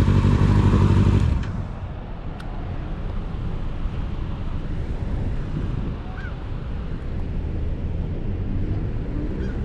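Kawasaki ZX-6R's inline-four engine idling, then stopping abruptly about a second in, leaving a steady low rumble of surrounding traffic.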